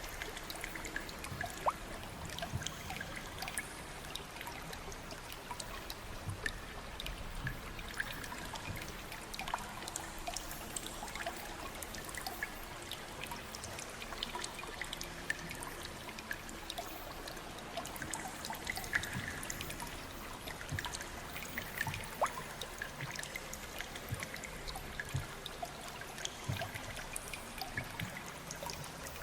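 Water trickling steadily, with many small scattered drips and plinks throughout.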